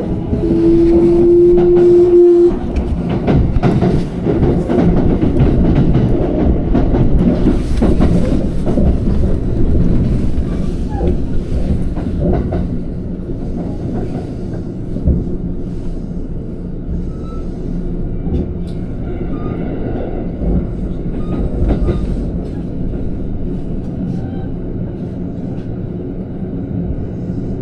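Electric commuter train running between stations: a steady rumble of wheels on rail with scattered clicks. A single steady tone sounds over it and stops suddenly about two and a half seconds in, and the running noise grows gradually quieter.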